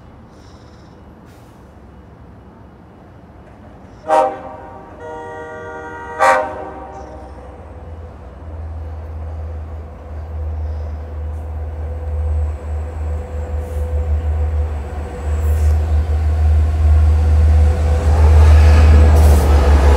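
Approaching Long Island Rail Road diesel-hauled passenger train: the locomotive sounds its horn for about two seconds starting about four seconds in, then a deep engine rumble grows steadily louder as it nears.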